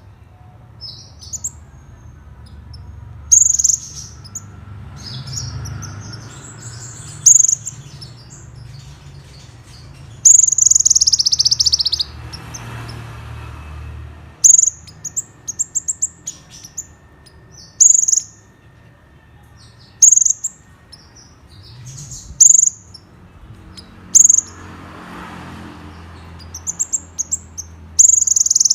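Konin bird calling: short, sharp high chirps every second or two, with a couple of longer loud phrases that sweep downward, over a faint low hum.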